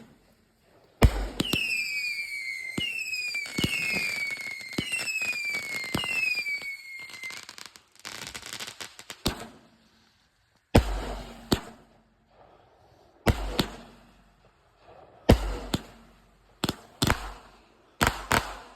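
A 30-shot consumer firework cake going off: a sharp bang, then about six whistling shots whose pitch falls, a spell of crackling, and then single loud bangs every second or two.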